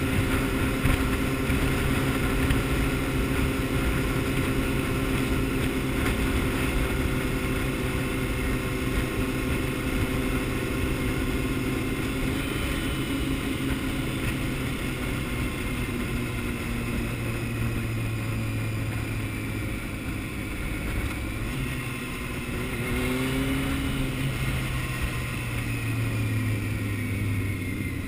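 Honda CBR600F inline-four motorcycle engine running at a steady cruise, with wind rush over the bike. The engine note falls off in the middle and picks up again a few seconds before the end.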